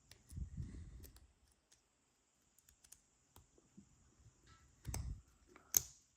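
Small plastic building-block pieces being handled and pressed together: scattered faint clicks and light rattling, with louder clacks about five seconds in and just before the end.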